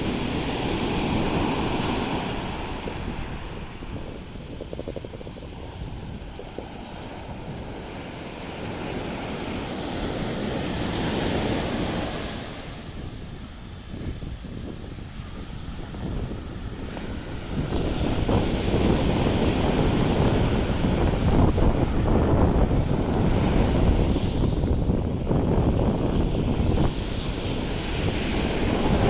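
Sea waves breaking and washing up a beach, rising and falling in surges, with wind buffeting the microphone. It grows louder and rumblier about two-thirds of the way in.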